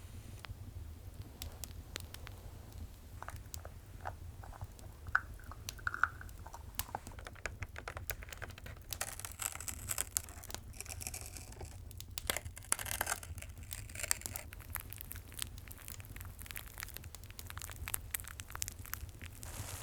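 ASMR trigger sounds: scattered sharp clicks and light taps, a few of them with a short ringing pitch. About halfway through comes a few seconds of dense crinkling and rustling, like wrapping paper or plastic being handled, all over a steady low hum.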